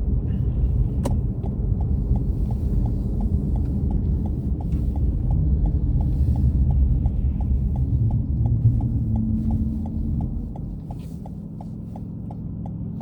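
Car cabin with a low road and engine rumble and a turn-signal indicator ticking evenly, about three ticks a second. The rumble eases from about ten seconds in as the car slows.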